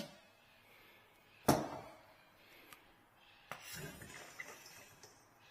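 A single sharp clink with a short ring about a second and a half in, then faint knocks and handling noises at the newly installed sink.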